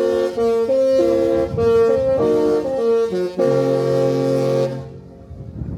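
The Disney Wish's musical ship horn playing a short tune in chords of several horn tones. The notes step through the melody and end on a long held chord that stops about five seconds in.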